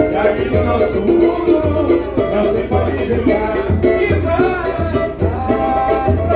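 Samba music with singing over a low drum beating about once a second.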